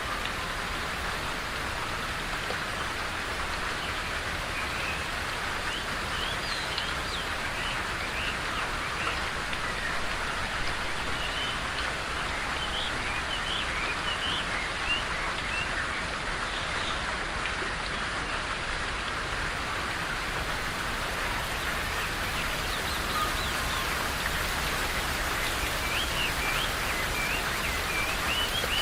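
Steady rain falling in a forest, an even hiss, with small birds chirping in many short rising notes, more of them in the middle and toward the end.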